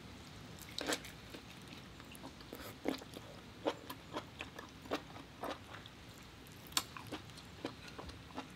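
Close-up mouth sounds of chewing a big mouthful of sauce-soaked lobster meat: short wet clicks and smacks a few times a second, sharper ones about a second in, near three seconds and near seven seconds.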